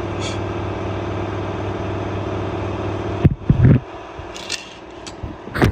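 LG F1222TD washing machine spinning its drum at full speed on the final spin, a steady hum. About three seconds in there are a few sharp knocks and the sound drops to a quieter level with scattered clicks.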